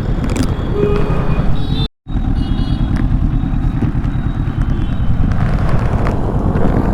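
Kawasaki Ninja 650 parallel-twin motorcycle under way, its engine and wind rushing over the rider's microphone mixed into a steady rough noise. The sound cuts out completely for a moment about two seconds in.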